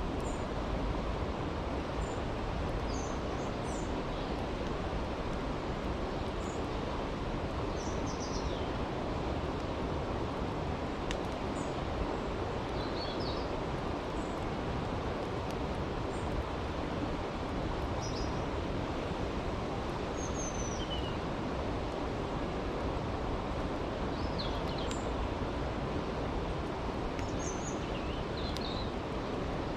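Steady rushing of a brook, with faint crackles from a campfire. Short high bird chirps come every few seconds.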